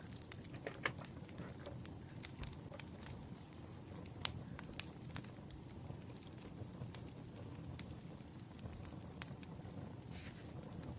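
Wood fire crackling: irregular sharp pops and snaps over a low, steady rumble, the loudest pop about four seconds in.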